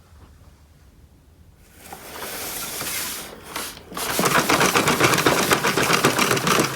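Toy minicars rolling down a slope track, a rattling clatter of small wheels that starts about a second and a half in, dips briefly, then turns louder and denser after about four seconds.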